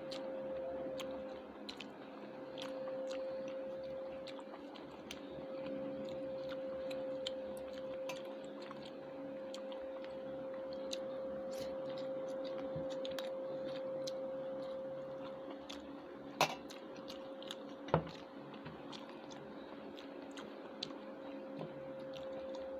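Close-miked eating sounds: chewing, with many small clicks as food is picked up and eaten, over a steady hum. Two sharper knocks come about two-thirds of the way through.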